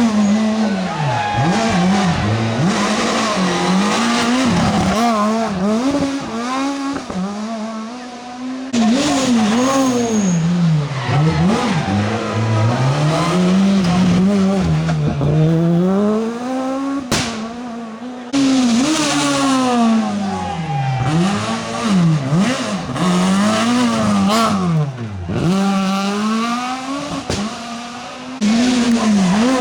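Rally cars at full speed on a tarmac special stage, engines revving hard and dropping in pitch again and again through gear changes and lifts, with some tyre squeal. Several short clips follow one another, with sudden jumps in level between them.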